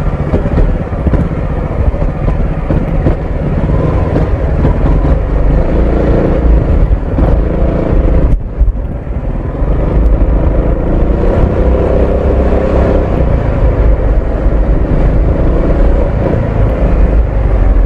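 Honda ADV 350 scooter's single-cylinder engine and exhaust running under way, a steady low rumble whose engine note swells and changes with the throttle, with a sudden brief dip in sound about eight seconds in.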